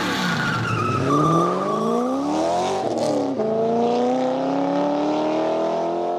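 A car engine accelerating as an outro sound effect, its pitch climbing. There is a break about three and a half seconds in, like a gear change, and then the pitch climbs again.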